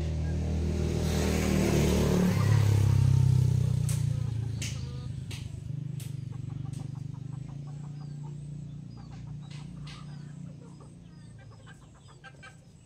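A motor vehicle passes close by: its engine grows louder to a peak about three seconds in, drops in pitch as it passes, and fades away. A few sharp clicks follow, then chickens cluck and chirp toward the end.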